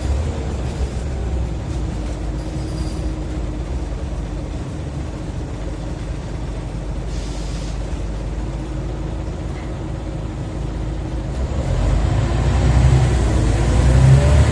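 Scania OmniCity bus engine heard from on board: the revs fall away at the start, it runs steadily at lower revs through the middle with a brief hiss about seven seconds in, then about twelve seconds in it pulls away harder and louder, revs climbing.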